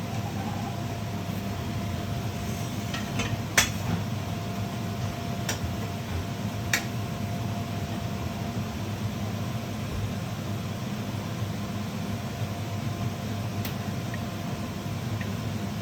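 Steady low mechanical hum with a faint steady tone, broken by a handful of sharp clicks and knocks of kitchen utensils. The loudest click comes about three and a half seconds in, and single ones follow a couple of seconds later and near the end.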